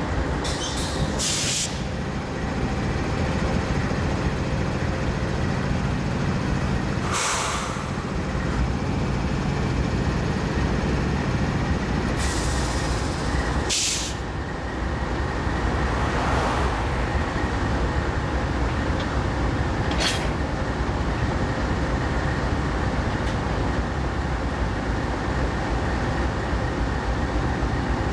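A train rolling past with a steady rumble of wheels and cars, broken by several brief high-pitched hisses and squeals.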